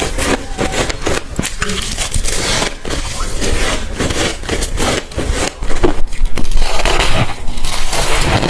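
Close-miked crunching of teeth biting into chunks of soft, frosty white ice, a rapid run of crackly crunches that gets louder about six seconds in.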